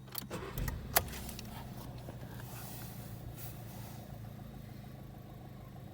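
Volkswagen Polo 1.2 TSI petrol engine idling steadily, with a few sharp clicks in the first second.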